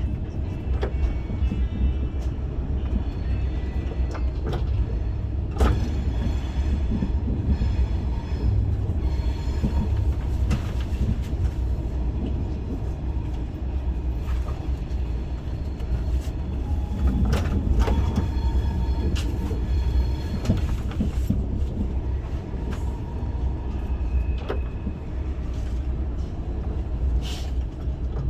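Cabin noise of an SRT high-speed train (SR 120000-series EMU) running: a steady low rumble with scattered clicks and a few brief high tones, as the train nears its terminal stop.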